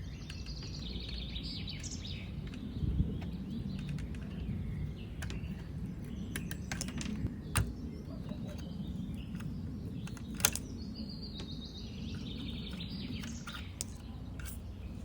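Birds chirping and warbling over a steady low background rumble, with a few sharp clicks or taps.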